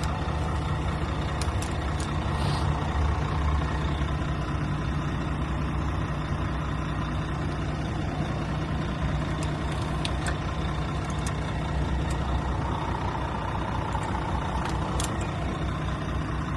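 Heavy diesel truck engine idling steadily, a low even hum with a few faint clicks over it.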